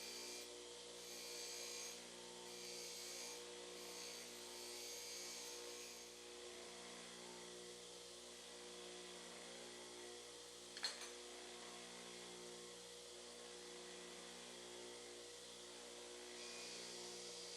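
Faint steady electrical hum, with a single sharp click about eleven seconds in.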